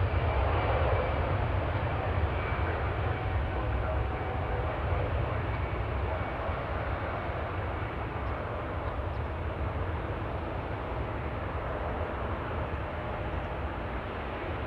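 Jet aircraft engine noise, a steady rumble and rush that slowly fades as the aircraft moves away.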